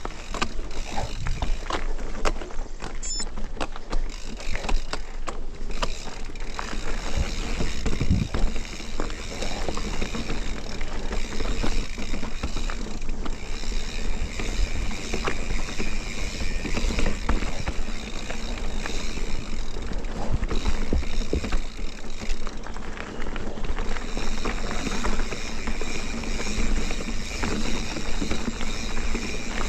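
Mountain bike moving along a rough dirt trail: a steady rumble of tyres on dirt with many small clicks and rattles from the bike.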